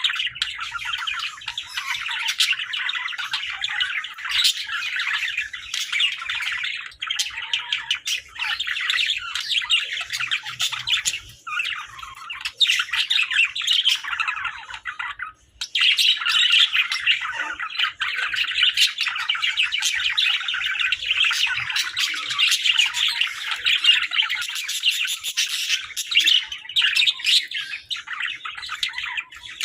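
Pet budgerigars (Hagoromo crested budgies) chattering continuously: a dense stream of rapid squawks, chirps and warbles, with a brief pause about halfway through.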